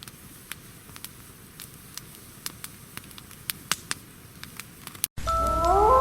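Campfire crackling, with irregular sharp pops and snaps over a faint hiss, from damp wood burning. About five seconds in it cuts off and music begins, its tones gliding up and then holding.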